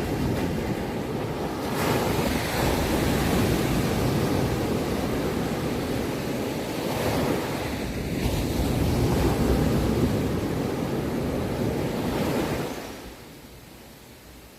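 Ocean surf: a loud, steady rush of waves that swells twice and then dies down quickly near the end.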